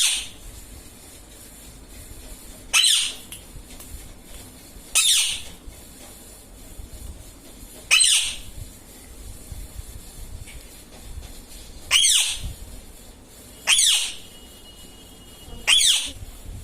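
Indian ringneck parrot giving loud, short squawks, about seven in all, one every two seconds or so.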